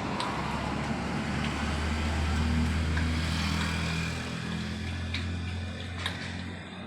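A motor vehicle engine running, a low hum that swells about two to three seconds in and then eases off, with a few light clicks over it.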